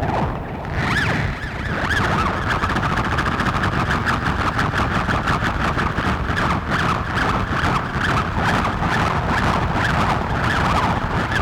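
Novation Circuit synthesizer playing a noisy experimental drone patch: a dense rumbling wash of noise with a wavering, siren-like high tone that swells and dips a couple of times a second. It builds up over the first second or two, then holds steady.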